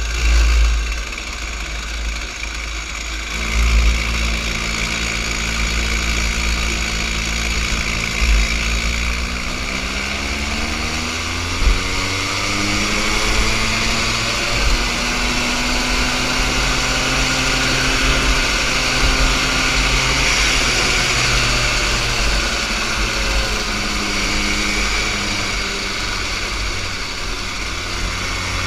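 Small junior kart engine running on an autocross run: the engine note comes in about three and a half seconds in, rises in pitch as the kart accelerates, then holds with small rises and dips through the turns, over a steady low rumble.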